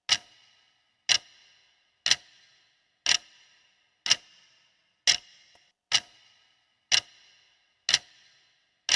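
Clock-tick sound effect of a quiz countdown timer: sharp, even ticks about once a second, each with a brief ringing tail, counting down the time to answer.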